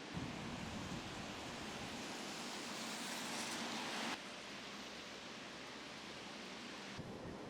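Strong gusting wind rushing as a steady broad hiss, brighter and louder toward the middle, then changing abruptly about four seconds in and again near the end.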